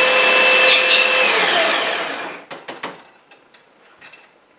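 Baratza Sette 30 coffee grinder's motor running with a steady whine, then winding down and stopping about two seconds in, followed by a few light knocks.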